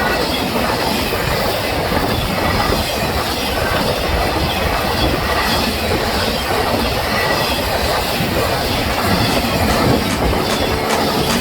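Train cars rolling past on the rails: a steady rumble of wheels on track, with faint brief squeals from the wheels.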